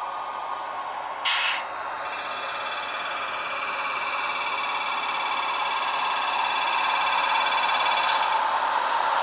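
Electric locomotive sounds from a model train's Digisound 3.1 sound decoder, played through its small speaker: a steady hiss and hum that slowly grows louder, with a short sharp hiss about a second in, then a steady high whine of several tones that ends with another short hiss near the end.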